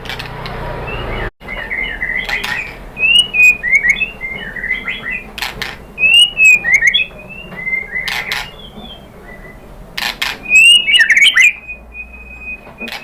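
White-rumped shama singing a fast, varied run of short whistled notes and chirps, broken by several loud sharp clicks. Near the end it holds one long, steady whistle.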